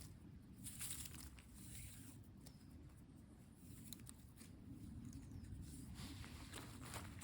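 Faint rustling and crinkling with scattered light clicks over a low steady rumble.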